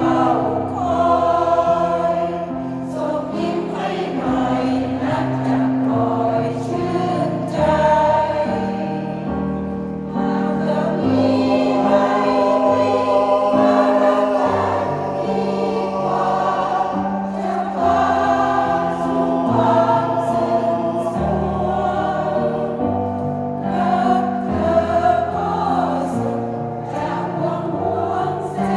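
A seniors' choir singing in several-part harmony, with long held notes that change chord every second or so.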